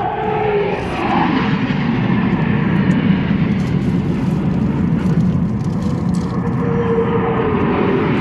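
Jet aircraft flying past at an air show: a loud, steady engine rush that builds through the first second and holds, with a whine sliding down in pitch near the start and again near the end as the jets go by.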